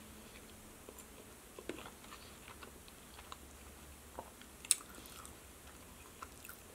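Faint close-up chewing of a mouthful of pasta e fagioli soup, with small wet mouth clicks and a spoon scraping softly in the plastic soup bowl. One sharper click comes a little past halfway.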